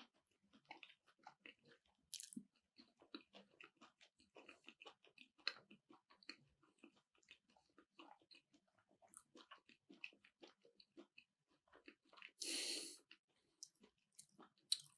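Faint close-miked chewing of a bite of keto sushi roll: many small wet mouth clicks and smacks. A brief louder hiss comes near the end.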